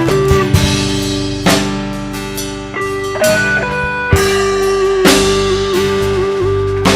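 Live band music in an instrumental break: a lead guitar holds long notes with small bends over bass and drums, with drum hits every second or so.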